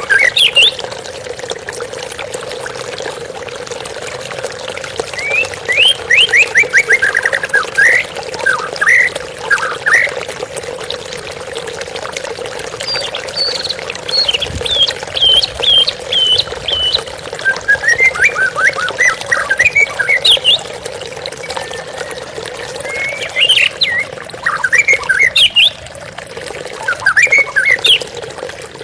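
White-rumped shama singing in phrases of fast whistled and chattering notes, separated by short pauses, over the steady sound of running water.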